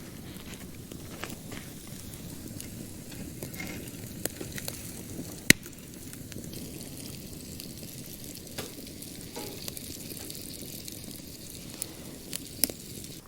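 Campfire of green, damp firewood burning with a steady hiss and scattered sharp pops. One loud crack comes about five and a half seconds in.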